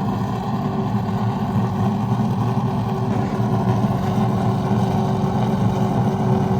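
Late model stock car's V8 engine idling steadily during its warm-up, holding an even, unchanging note.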